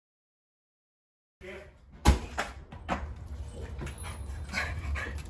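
A silent gap, then a Shiba Inu moving about with a sharp knock about two seconds in, followed by lighter clicks and knocks and a few short dog sounds.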